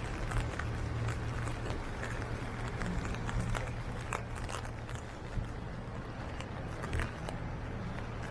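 Heavy rain falling, with raindrops ticking irregularly on an umbrella held overhead, over a low steady rumble.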